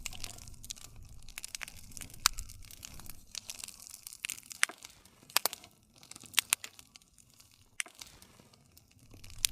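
Wood fire crackling: irregular sharp pops and snaps over a steady hiss and low rumble of the flames.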